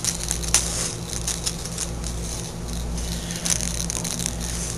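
Scattered light clicks, scratches and rattles of a cat dashing about and playing, over a steady low hum.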